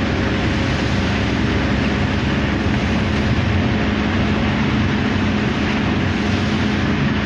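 Car driving along a road: steady engine and road noise with a low, even hum.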